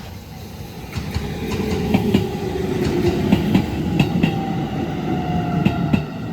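JR Iida Line electric train passing the crossing. Its wheels clack over the rail joints, mostly in quick pairs, over a rumble that swells in the first couple of seconds, with a whine that slowly falls in pitch.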